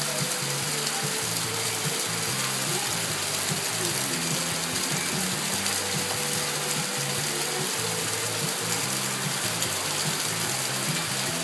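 Steady rain falling, an even hiss with no breaks, over a faint low hum.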